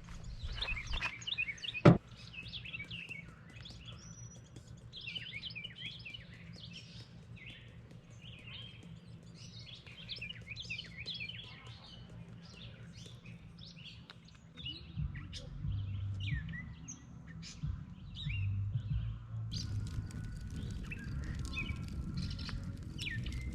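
Wild birds chirping and singing in many short, quick calls. A single sharp click stands out about two seconds in, and a low rumble comes in about halfway through.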